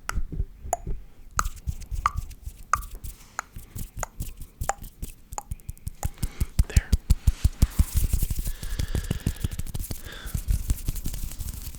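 Close-miked ASMR mouth and hand sounds: sharp pops at a steady pace, about one and a half a second. About six seconds in they become a fast, dense run of clicks and taps, with a hissing rub of hands near the end.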